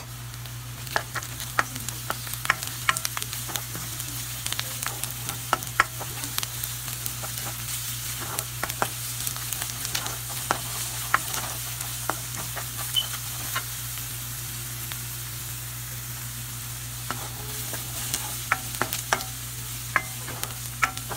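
Chopped onions, cumin seeds and ginger-garlic paste frying and sizzling in a nonstick pan while a spatula stirs them, with frequent clicks of the spatula against the pan, over a steady low hum.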